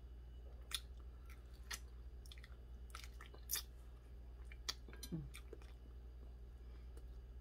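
A person eating fried fish by hand: quiet chewing with a few sharp mouth clicks and smacks scattered through, and a short low hum about five seconds in.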